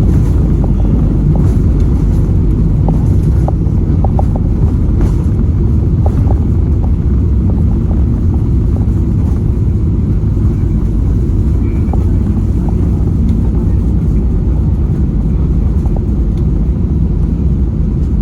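Airbus A320neo cabin noise during the landing: a loud, steady low rumble of engines and airflow, with scattered light clicks in the first few seconds.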